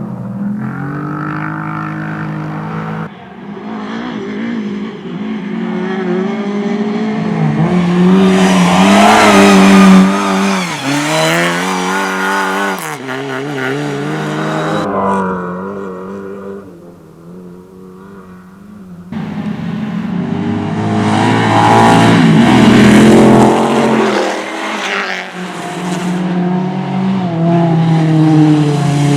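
Rally cars' engines revving hard and dropping in pitch through gear changes as they race past, in several separate passes, with a quieter stretch in the middle.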